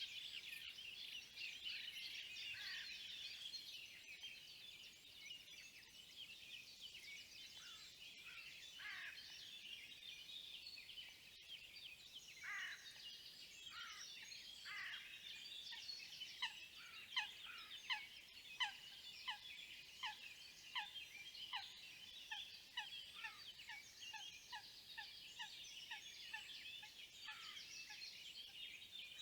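Several wild birds calling and singing at once, with many short high chirps throughout. From about halfway, a run of short, lower, downward-sliding notes repeats evenly and quickens toward the end.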